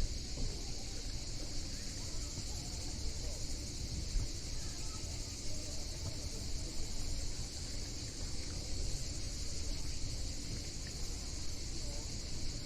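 Cicadas in a steady high chorus, over a low outdoor rumble.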